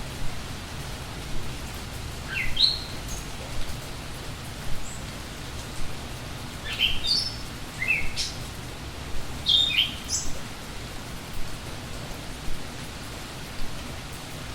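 Steady rain with birds chirping over it: a quick rising chirp about two and a half seconds in, then a cluster of short, high chirps between about seven and ten seconds. Scattered sharp drops of rain stand out here and there.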